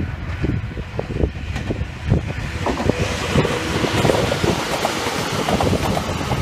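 Wind buffeting the microphone throughout. From about three seconds in, the running noise of a Sangi Railway electric train, rumble with a hiss of wheels on rail, swells as it passes close by.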